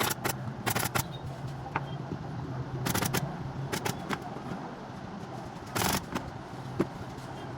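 Short clusters of sharp clicks and knocks, a few times over several seconds, over a steady low hum.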